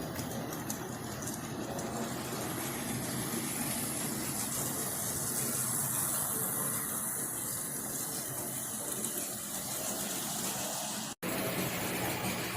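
Model diesel locomotives running round a layout with wagons in tow: a steady whirr of the motors and rattle of wheels on the track. The sound cuts out for an instant about eleven seconds in.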